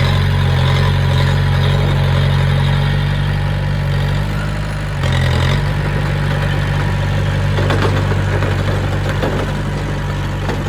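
Heavy machine's diesel engine idling steadily, with a brief change in pitch about five seconds in.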